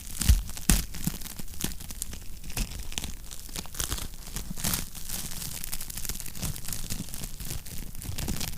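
Wood fire crackling in a fireplace: irregular snaps and pops over a low rumble, with two louder pops in the first second.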